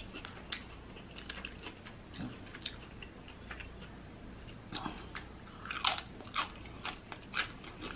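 Close-miked chewing of a birria taco: soft wet mouth smacks and clicks, a few louder ones around six seconds in.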